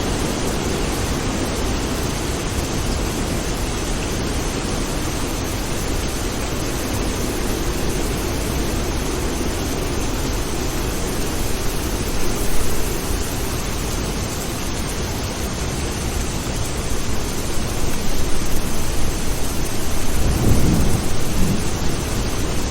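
Steady, heavy rain hiss with low rolling thunder under it. A short swell comes about halfway through, and a stronger rumble of thunder builds near the end.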